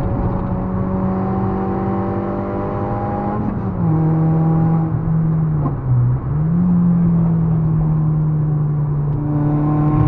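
Citroën Saxo 1.6 VTR's eight-valve four-cylinder engine under way, pulling at high revs with the pitch slowly climbing, then falling about a third of the way in. Near the middle the revs dip further and jump back up, then hold steady.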